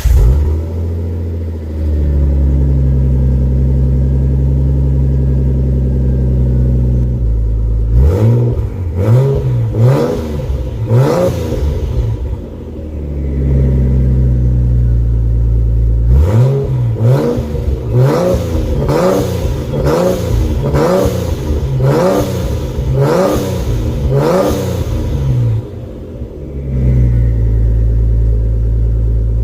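Nissan R32 Skyline's RB straight-six running on a cold start through a new custom 3-inch stainless steel exhaust. It idles steadily, is blipped about four times in quick succession, settles, then is revved about nine more times in a quick series before dropping back to idle. The owner calls it not too loud.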